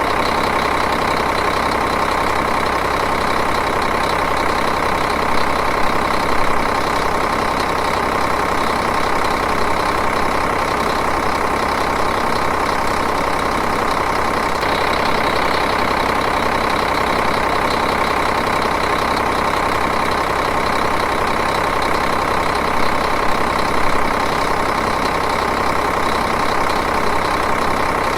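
Diesel engine idling steadily, with an even, regular clatter.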